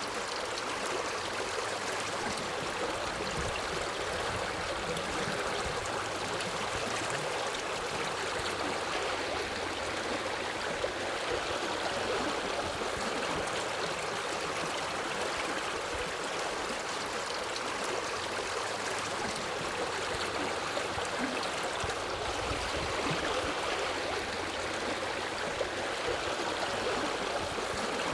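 Waterfall with water rushing and splashing onto rocks, a steady unbroken roar.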